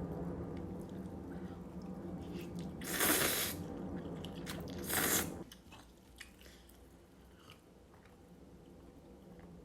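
Someone biting and chewing food, with two louder crunchy noises about three and five seconds in, over a low steady hum that stops about five and a half seconds in.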